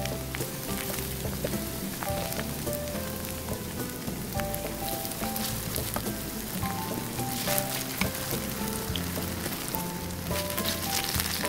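Sweet potato sticks frying in shallow oil in a pan, a steady sizzle with fine crackling, under background music.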